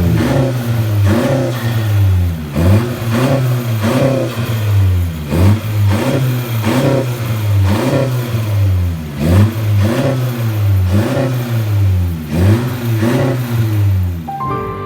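Honda Civic RS turbocharged four-cylinder revved through a full turboback exhaust with tri tips. The throttle is blipped over and over, about ten quick rises and falls in pitch, with a steady low drone between them.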